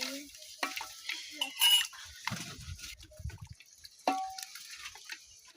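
Metal pots and cooking utensils clinking and knocking in a run of short strikes. A louder strike about four seconds in rings on briefly like a metal pan.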